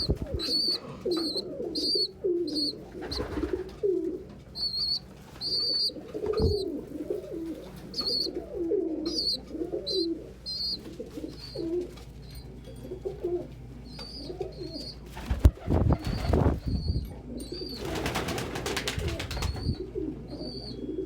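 Domestic pigeons cooing over and over in low rolling phrases, with a steady series of short high chirps running alongside. About two-thirds of the way through come two short bursts of wing flapping.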